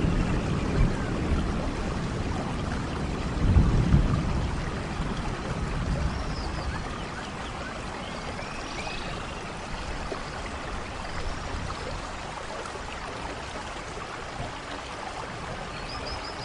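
Steady rainfall, with a low rumble of distant thunder swelling about three and a half seconds in and fading away. Faint short high chirps come through the rain now and then.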